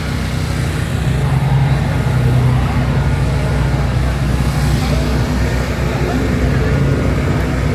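A car engine running steadily with a low hum that grows a little louder about a second in.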